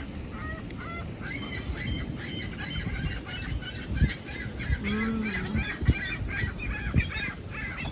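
Loud birds calling, a rapid series of short, repeated squawking calls, over a steady low outdoor rumble.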